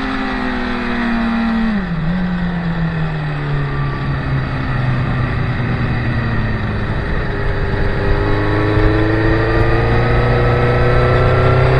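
Motorcycles on a race track running through a corner: engine notes falling as they slow, with a sharp pitch step about two seconds in, then rising again as they accelerate from about seven seconds on.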